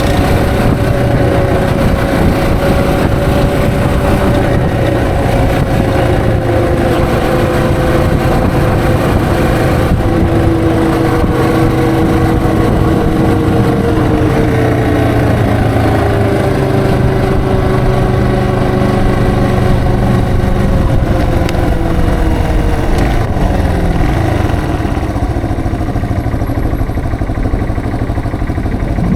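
Yamaha TW225's single-cylinder four-stroke engine running steadily under way, its pitch drifting slowly down, over wind noise on the helmet camera. Engine and wind grow somewhat quieter near the end.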